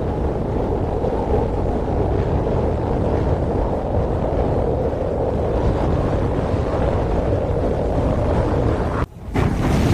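Steady, loud rushing of rough water with wind buffeting the microphone. About nine seconds in it cuts off abruptly and gives way to a brighter, hissier rush.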